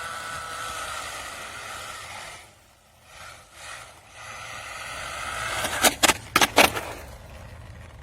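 Brushless RC drift car running, its motor whining over tyre and road noise. The sound fades out a few seconds in, builds back up, then a few sharp knocks come about six seconds in.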